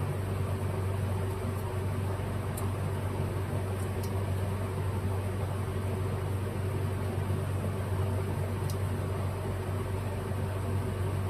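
A steady machine hum, like a fan or other small running motor, with a few faint light clicks.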